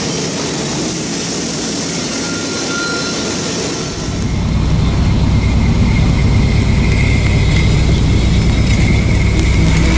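Diesel locomotives of a train on the mountain grade: a steady rushing noise, then about four seconds in a deep engine rumble comes up and holds, with a faint high steady squeal above it.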